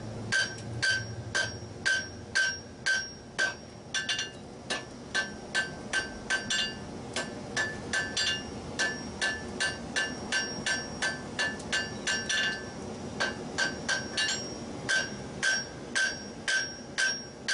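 Blacksmith's hammer striking white-hot iron on an anvil in a steady run of blows, about two a second, each with a short ring. This is a forge weld being set with light blows, meant to drive the flux and liquid scale out of the joint.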